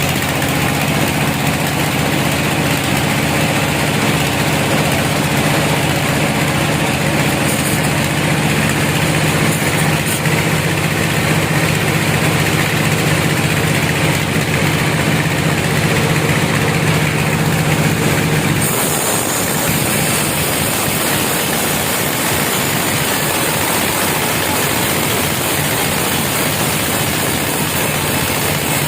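Sawmill machinery running steadily with a low engine hum and a dense mechanical noise. About two-thirds of the way through, the low hum drops away and the sound changes character, while the overall loudness holds.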